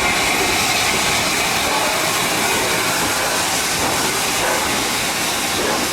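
Steam train running: a loud, steady rush of noise with no clear beat.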